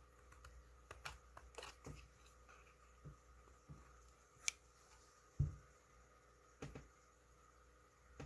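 Faint, irregular clicks and taps with one low knock about halfway through, over a faint steady hum.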